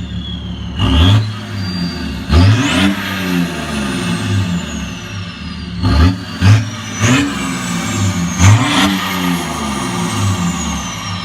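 Diesel car engine with a straight-piped exhaust idling and being blipped hard about six times, each rev climbing quickly and dropping back to idle, with a high whistle that winds down slowly after the revs.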